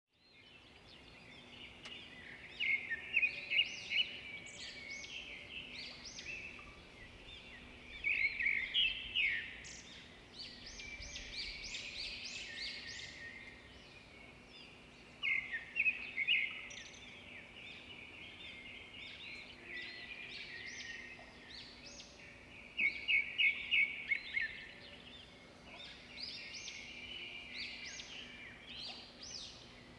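Songbirds singing and chirping continuously. Four times, a louder burst of quick repeated notes stands out over the steady chatter.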